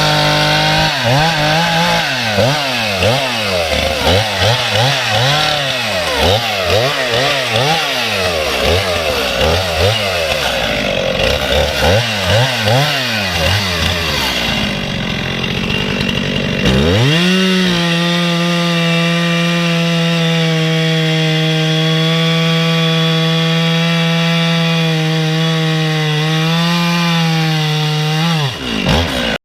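Gas chainsaw cutting up a log, its engine revving up and down about once a second as it bites into the wood. Then it is held at a steady high pitch for about ten seconds and dies away near the end.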